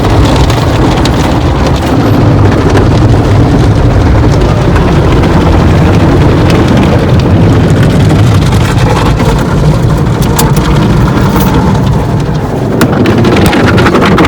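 Car wash water spraying and pelting onto the car body, heard from inside the cabin as a loud, steady rush.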